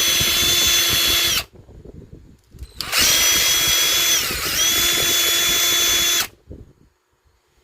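Electric drill enlarging the hole in a small homemade knob, run in two bursts. The first stops about a second and a half in, and the second runs about three seconds, its whine dipping in pitch for a moment as the bit bites, then recovering.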